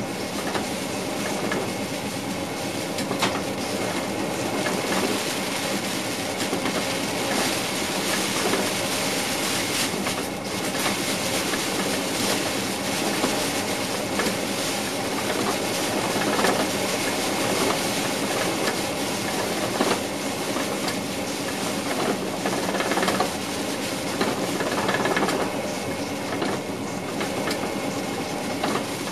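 NS VIRM double-deck electric train running along the track, heard from the driver's cab: steady rolling rail noise with wheels clicking over rail joints and a steady hum from the train.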